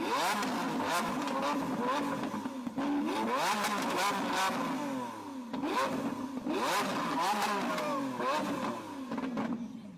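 Lamborghini Aventador's V12 being revved hard over and over, the engine note sweeping up and falling back again and again, with sharp exhaust pops and bangs as flames shoot from the exhaust.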